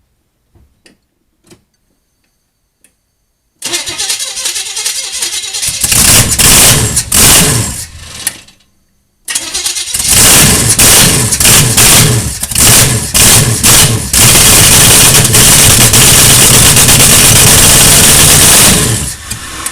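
Newly built twin-turbo 352 V8 being started for the first time: about three and a half seconds in it cranks and catches, runs unevenly and dies, then restarts within a second and runs very loud, uneven at first and steady for its last few seconds before dropping away at the end.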